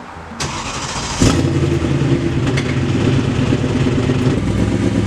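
BMW E92 M3's S65 V8 starting: a short crank from about half a second in, catching with a loud burst just over a second in, then idling steadily with a lumpy, cammed sound. A hole in the exhaust manifold leaks exhaust.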